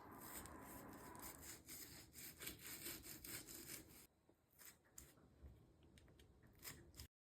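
Faint scraping and rubbing with many small clicks, growing quieter after about four seconds, then cutting off to dead silence near the end.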